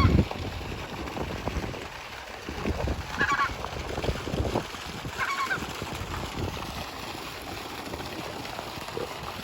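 Cranes calling as a flock passes overhead, two short bursts of calls a couple of seconds apart, with wind rumbling on the microphone.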